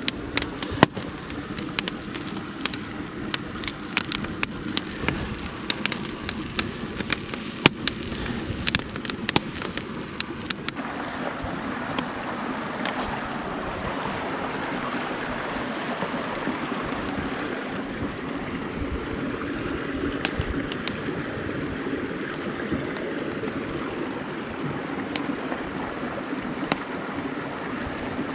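Mountain stream running steadily. For the first ten seconds or so, sharp crackles and pops sound over it, then stop abruptly, leaving only the even rush of water.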